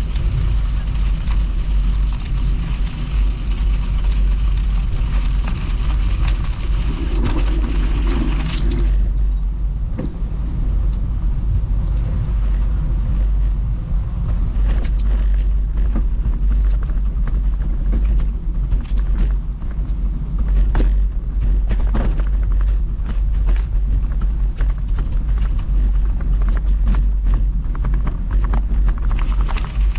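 Wind rumbling on the microphone of a camera riding on a bicycle, over the noise of the tyres rolling along a canal path. From about halfway through, many short sharp clicks and knocks cut in.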